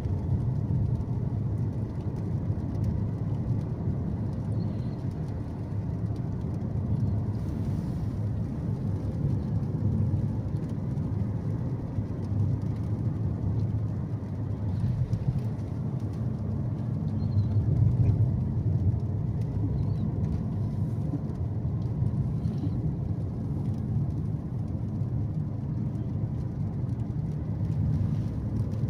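Car driving, heard as a steady low engine and road rumble.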